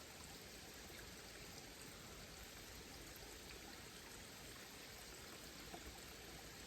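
Faint, steady rushing of a waterfall.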